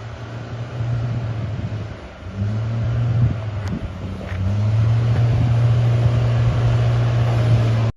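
Motor vehicle engine running with a steady low hum that drops out briefly about two seconds in, then comes back and gets louder from about halfway through.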